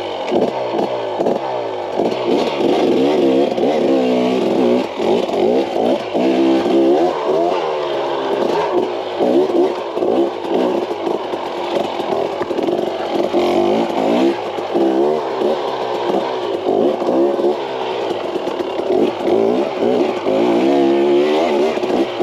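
KTM 300 XC-W's two-stroke single-cylinder engine revving up and down constantly while the dirt bike is ridden, with clatter from the bike mixed in.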